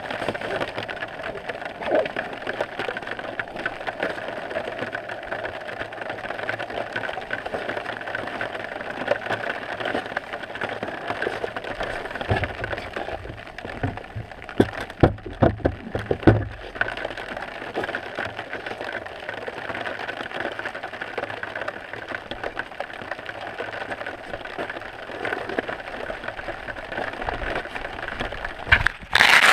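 Steady patter of rain on the camera, with a few louder rumbles and knocks about halfway through.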